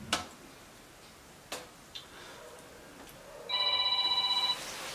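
Phone ringing: a trilling electronic ring of several steady high tones, starting about three and a half seconds in and lasting about a second. A few faint sharp clicks come before it.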